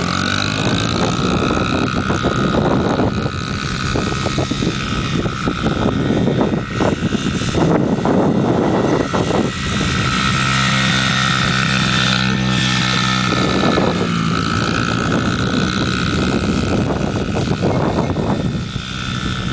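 Honda CRF50 dirt bike's small single-cylinder four-stroke engine running steadily under a light throttle, its note rising slightly as it pulls away at the start, with repeated gusty rushes of noise over it.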